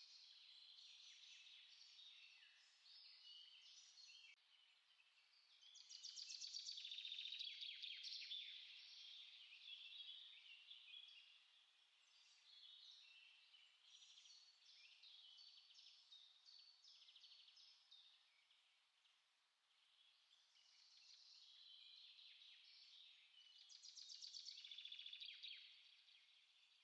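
Several small songbirds singing and chirping quietly over one another, with bursts of rapid trilling that swell louder about six seconds in and again near the end.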